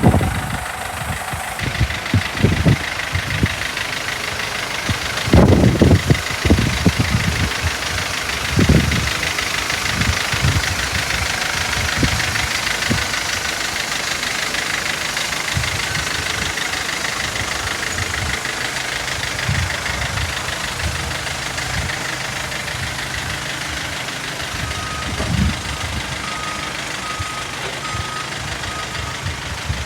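Mercedes Sprinter van's diesel engine idling steadily, with irregular low thumps. Near the end comes a run of short, evenly spaced beeps.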